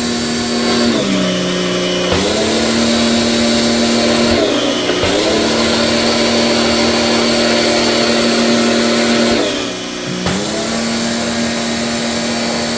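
Split-type air conditioner running with a loud whirring hum over a rush of airflow. The hum's pitch sags and recovers several times. This abnormal noise is one the owner blames on a faulty pressure-washer deep cleaning; normally only the air should be heard.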